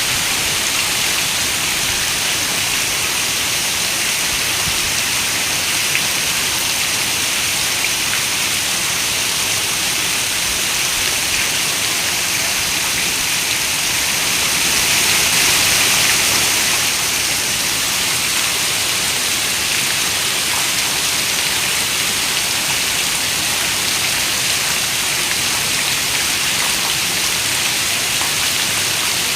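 Steady rain falling, a dense even hiss that swells a little about halfway through.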